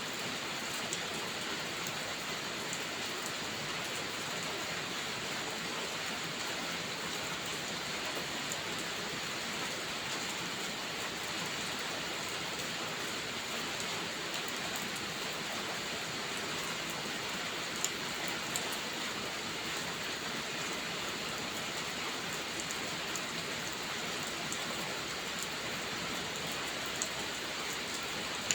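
Steady rainfall, an even hiss of rain on a surface, with a few brief sharp ticks of single drops or crackles.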